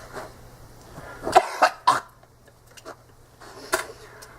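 A person coughing and gagging in a few short bursts, about a second and a half in, again half a second later, and once near the end, a retching reaction to swallowing a foul blended mix of sauces, vinaigrettes, pickle juice and raw egg.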